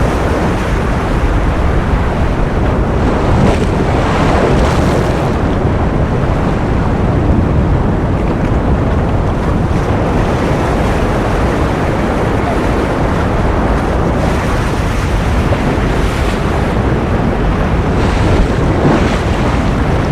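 Ocean surf: a steady, deep rush of water that swells brighter a few times as waves wash in.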